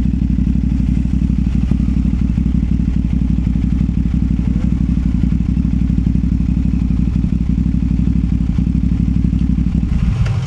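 CFMOTO 450SR parallel-twin motorcycle engine running at steady revs through a Yoshimura exhaust, its note dropping lower near the end.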